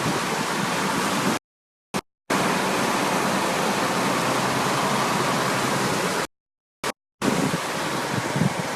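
Steady rushing noise that cuts out to complete silence twice, for about a second each time, with low gusty rumbling near the end.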